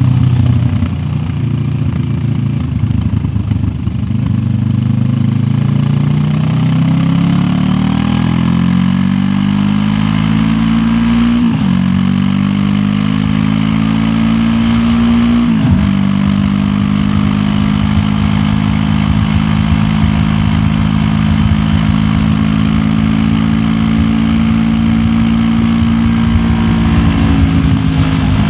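QJ Motor SRT 700X's parallel-twin engine under way: it slows at first, then accelerates with two upshifts about 11 and 15 seconds in, then holds a steady pitch while cruising.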